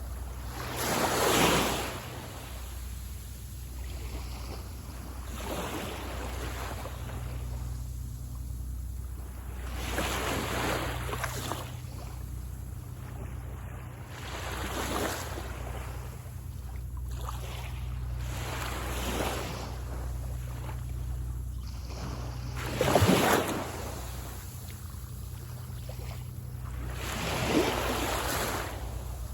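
Small waves breaking and washing up on a sand beach, one surge about every four seconds, over a steady low rumble.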